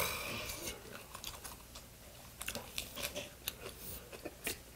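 Crunchy chewing of a lettuce wrap with raw garlic and green chili: a scatter of crisp crackles and clicks, after a short breathy hiss at the very start.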